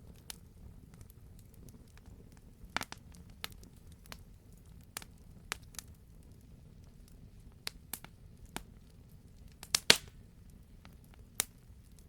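Wood fire burning in a fireplace: scattered sharp crackles and pops over a low steady rumble of the flames, with the loudest pops clustered just before the ten-second mark.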